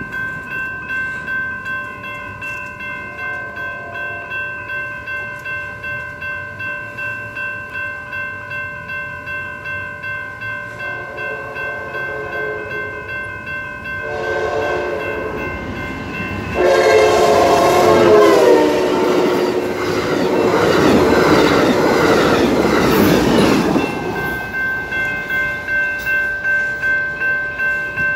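Railroad crossing bell ringing steadily while an approaching Amtrak train led by an F59PHI diesel locomotive sounds its horn several times, the last and loudest blast falling in pitch as the locomotive passes. The train then rumbles and rattles over the crossing for several seconds before the bell is heard alone again.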